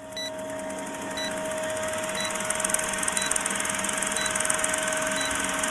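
Edited intro sound effect: a steady electronic hum under a hiss that builds over the first couple of seconds, with a short high beep about once a second.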